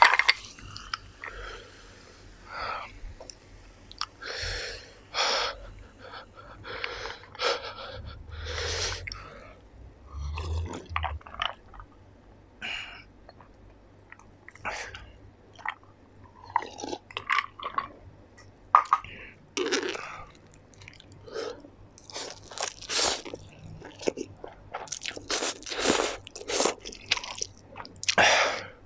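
Close-miked chewing of spicy black instant noodles: wet mouth sounds in irregular short bursts, coming thicker and louder in the last few seconds.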